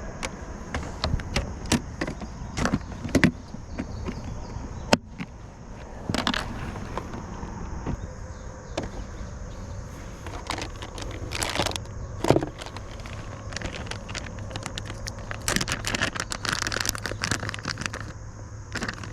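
Irregular clicks, knocks and small rattles of fishing tackle being handled aboard a kayak, thickest near the end, over a steady low rumble.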